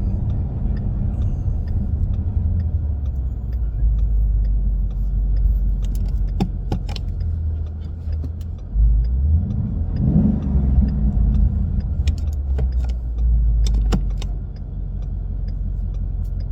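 2017 Mustang GT's 5.0 Coyote V8 heard from inside the cabin while driving, with the center muffler replaced by an H-pipe and the axle-back mufflers by straight-through resonators: a deep, steady drone. The engine pulls harder about nine seconds in, its pitch rising and falling around ten seconds, then eases off near fourteen seconds. A few sharp clicks are scattered through it.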